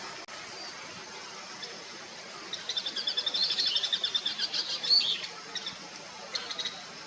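Bull-headed shrike calling: a rapid chattering series of high notes for about two and a half seconds, starting a few seconds in. A shorter burst of the same notes follows near the end.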